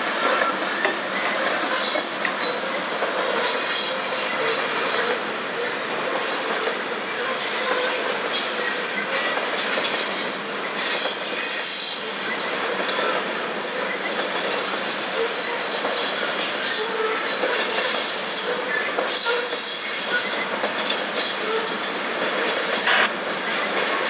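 A CSX freight train of covered hopper cars rolling steadily past, its steel wheels squealing and screeching against the rails over the continuous rumble and clatter of the cars.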